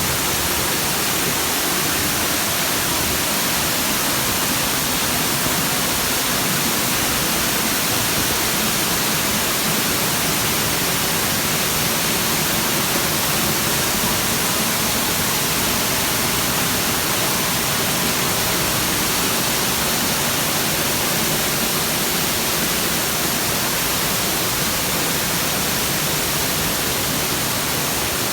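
Nabegataki curtain waterfall pouring, a steady, even rush of falling water.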